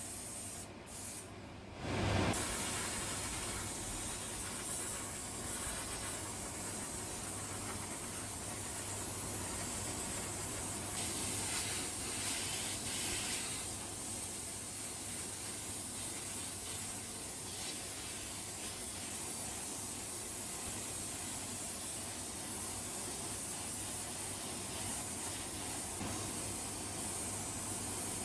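Steady hissing spray of compressed air, as from a pneumatic spray tool, with a short break about a second in.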